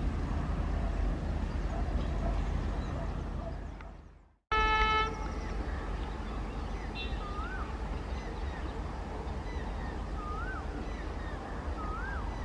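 Passing train rumble fades away, then a single short train horn toot sounds, the loudest moment. A bird's rising-and-falling whistled call repeats four times over a steady background after it.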